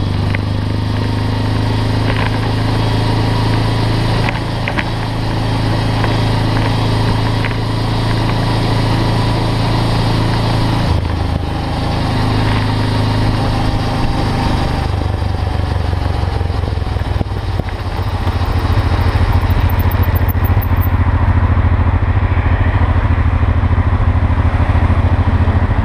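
Motorcycle engine running steadily, the noise that its owner finds strange, with a few light clicks in the first five seconds. The engine note changes about eleven and again about fifteen seconds in, and it runs louder from about eighteen seconds in.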